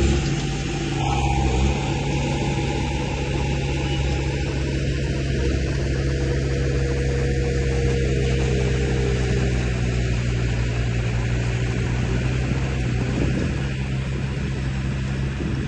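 Radio-controlled construction model running with a steady, unchanging engine-like drone under a layer of hiss.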